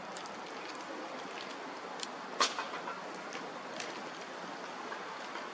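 Bonfire burning, with a steady rush of flame and scattered crackles and pops from the burning wood; one louder pop comes about two and a half seconds in.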